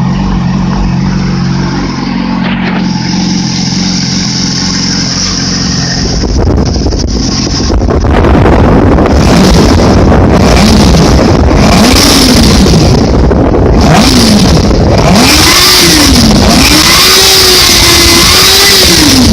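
2008 Yamaha YZF-R6 engine, a 599 cc inline-four, idling steadily, then from about six seconds in getting louder and being revved up and down over and over, about half a dozen rising-and-falling blips with the last two held near the top for longer.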